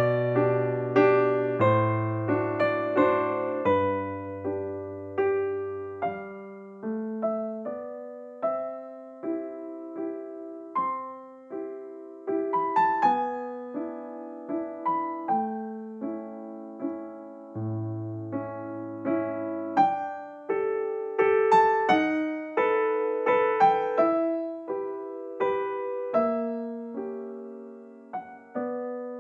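Gentle background piano music: single notes that fade out over sustained bass notes.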